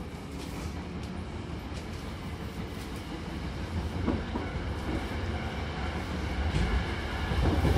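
Hankyu Kyoto Line train pulling away and gathering speed, heard from inside the car: a steady low rumble of wheels on rail that grows louder, with sharp rail-joint clacks from about four seconds in.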